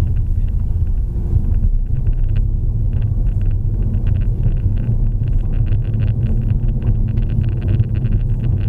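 A vehicle driving on a rural track, heard from inside the cabin as a steady low road-and-engine rumble. From about a second and a half in, a rapid patter of light clicks and crackles runs over it.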